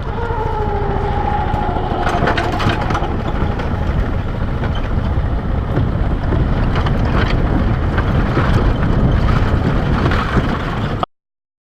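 A vehicle engine running under load as it climbs a hill, with a whine that falls in pitch over the first two seconds. The sound cuts out abruptly near the end.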